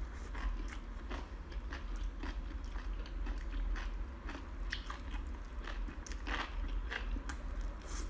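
Close-miked eating: wet chewing and slurping of thin strands in chili oil, with irregular crunchy mouth clicks throughout, over a steady low hum.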